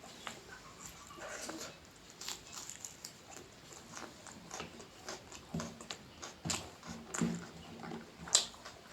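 Close-miked eating sounds: irregular wet clicks and smacks of chewing rice and noodles, with a short low hum about six seconds in.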